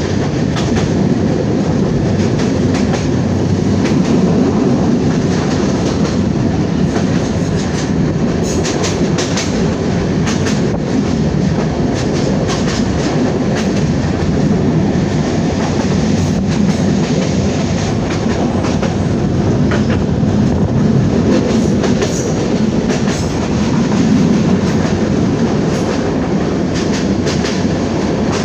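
A moving passenger train, with a steady rumble of wheels on the rails and frequent clicks and clacks as the wheels pass over the track.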